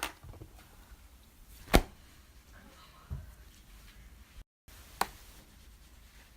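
Pink clay slime being handled by hand, with four sharp pops or clicks spread across a few seconds, the loudest about two seconds in.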